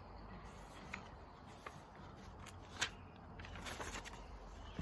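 Faint rustling of paper with a few soft, scattered clicks: the pages of a picture book being handled and turned.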